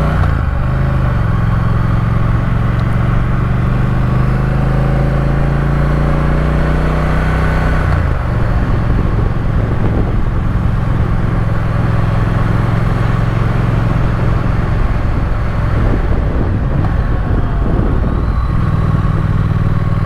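Triumph Speed Twin parallel-twin engine running under way at a steady speed, with wind rush over the mic. The engine note changes about eight seconds in, goes rougher for a while, then settles back to a steady note near the end.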